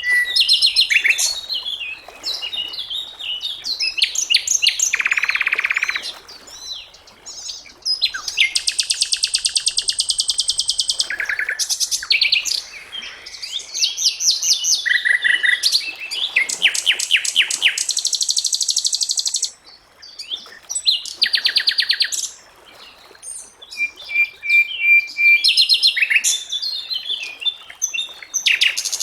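Sikatan londo, an Indonesian flycatcher, singing a long, varied song of fast trills, rattling runs of rapid notes and chattering phrases, with a short held whistle about two-thirds of the way through.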